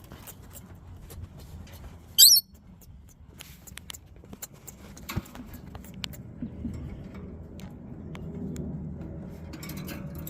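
A parrot gives one brief, shrill, wavering squawk about two seconds in. Scattered light clicks and knocks of handling follow.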